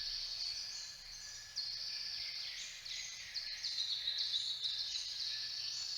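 Forest ambience: a steady, high-pitched chorus of birds calling, soft under the surrounding speech.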